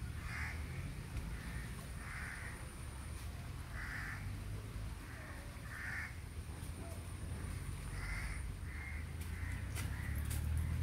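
Short bird calls repeating every second or so, over a steady low background noise.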